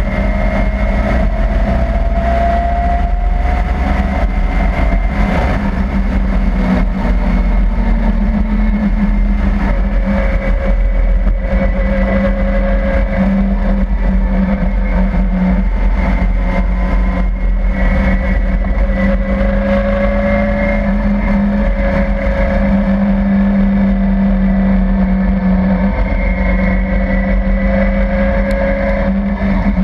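Caterham Seven with a 350 bhp Mazda RX-7 engine, heard from the open cockpit while driving. The engine climbs in pitch over the first few seconds, then holds fairly steady revs with small rises and dips, over a constant rush of wind and road noise.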